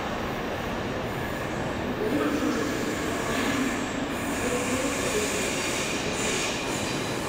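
Double-deck regional electric train rolling into the station and slowing, with a steady rumble and a whine that sets in about two seconds in.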